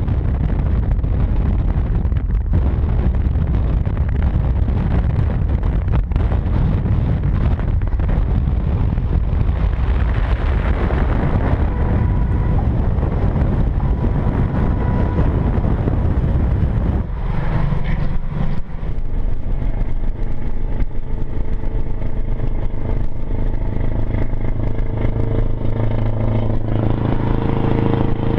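Scania 164 480's V8 diesel with an open, unsilenced exhaust pipe, running on the road. For about the first 17 seconds it is a deep, rough rumble; after that it settles into a steady droning engine note, which steps up in pitch near the end.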